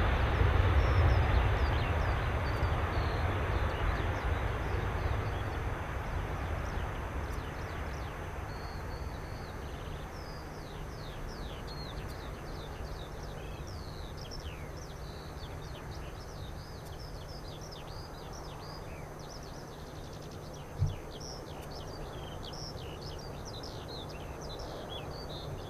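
Jet airliner's engine rumble fading away as the aircraft moves off, giving way to birds chirping over a low distant rumble. A single short thump about 21 seconds in.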